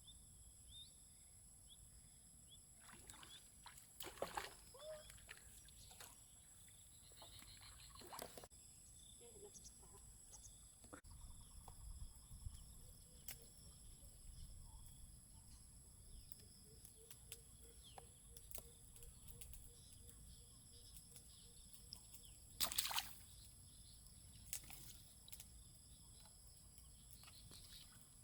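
Near silence: quiet outdoor ambience with a faint steady high hiss and a few scattered soft knocks or clicks, the loudest about three quarters of the way through.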